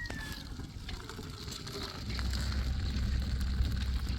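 The tail of a rooster's crow, falling off just after the start, then from about two seconds in a steady low rumble that gets louder.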